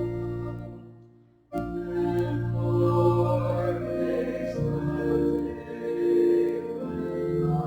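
Organ playing hymn chords, with voices singing along. About a second and a half in, the music fades away to almost nothing and then cuts back in abruptly.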